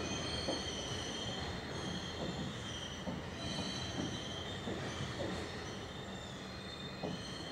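Passenger train rolling away on a curve: a low rumble of wheels on the rails with scattered knocks, and high wheel squeal that comes and goes, fading slowly as the train recedes.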